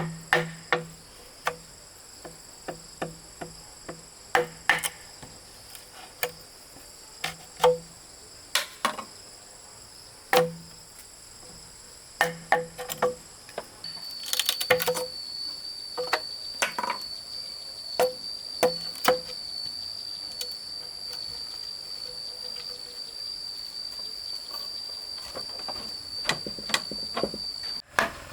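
Irregular sharp knocks of tool strikes on wood, some in quick pairs and runs, over steady insect shrilling; a second high, steady insect whine joins about halfway through.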